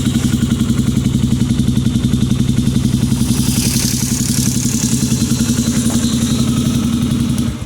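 Honda Tornado 250's single-cylinder four-stroke engine idling with an even, steady pulse after being rebuilt; it stops abruptly near the end.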